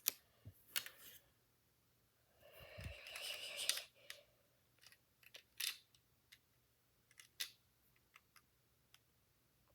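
Plastic Lego pieces being handled and snapped together: scattered small clicks and taps, with a longer rustle about two and a half seconds in as pieces are sorted.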